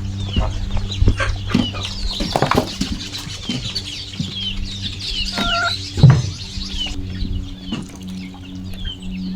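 Chickens clucking, with many short, high chirps falling in pitch, over a steady low hum; a loud knock about six seconds in.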